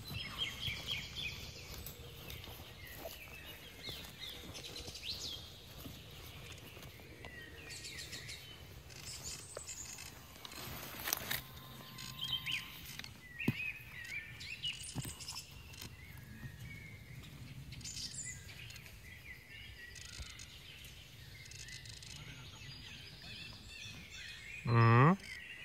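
Small birds chirping and calling, with a few faint clicks. Near the end comes a loud pitched tone of about half a second.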